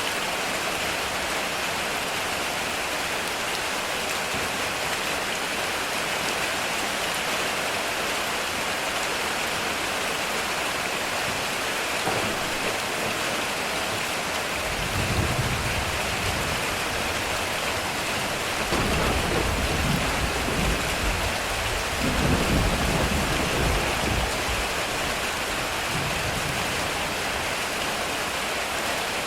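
Heavy rain drumming steadily on a metal roof, with low rolls of thunder starting about halfway through and rumbling on in waves through the last third.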